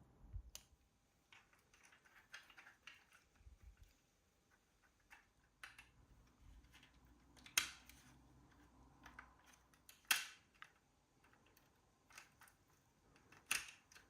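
Quiet scattered small clicks and taps, with three sharper, louder clicks spaced a few seconds apart.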